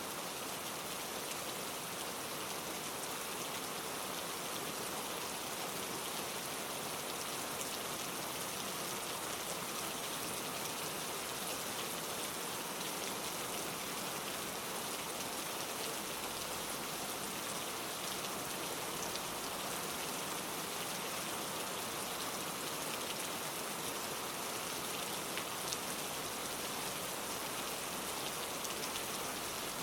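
Steady rain falling, a dense even patter of raindrops with fine drip ticks throughout.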